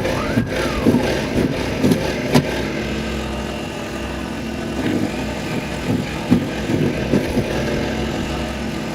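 Small snowblower engine running steadily, with scattered small knocks.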